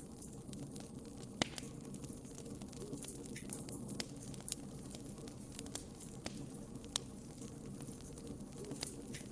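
Wood fire crackling steadily, with a low rumble under irregular sharp pops and snaps, the loudest about one and a half seconds and seven seconds in.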